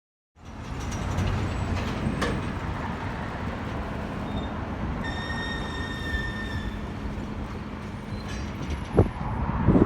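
EF66 electric locomotive rolling slowly through a rail yard under tow, a steady low rumble mixed with wind buffeting the microphone. About halfway through comes a brief high metallic squeal from the wheels, along with a couple of sharp clicks.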